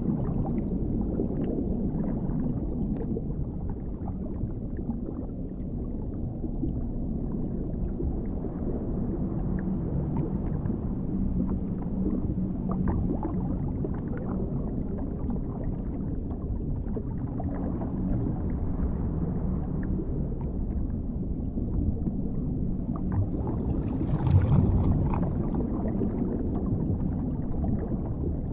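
Dark underwater ambience: a steady, muffled low rumble of deep water with a faint low hum, swelling briefly louder and brighter near the end.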